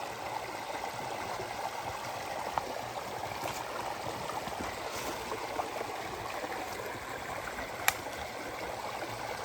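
Creek water flowing and splashing over rocks in a steady rush, with a single sharp click about eight seconds in.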